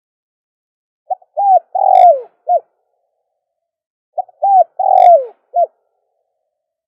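A dove cooing: two repeated phrases about three seconds apart, each a few low coos that slide down in pitch, with the longest and loudest coo near the end of the phrase and a short note to close it.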